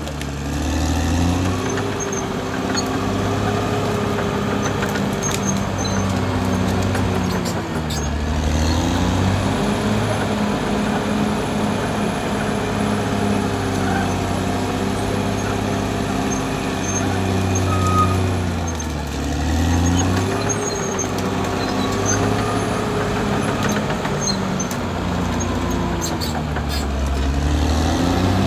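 Caterpillar D6R XL bulldozer's diesel engine working hard, its pitch sagging and climbing back several times, about every ten seconds, as the load comes on and eases.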